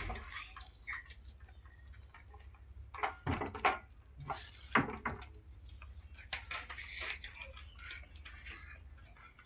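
Faint, scattered short chirps and clicks from a pet ringneck parrot, clustered about three to five seconds in.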